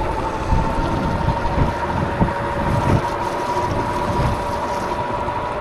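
Wind buffeting the microphone of a moving electric bike, an uneven low rumble, with a thin steady whine from the bike's rear hub motor under it.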